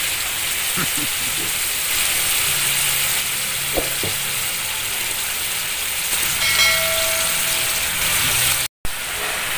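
Chicken livers, onion and garlic sizzling steadily in hot oil in a frying pan, a continuous frying hiss. The sound cuts out for a moment near the end.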